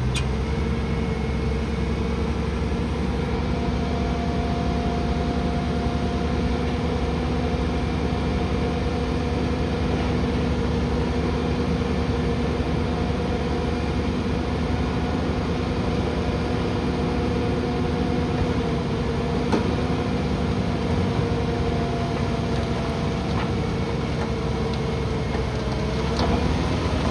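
Diesel engine of heavy landfill equipment running steadily with an even drone. Near the end it swells briefly, then its pitch starts to fall.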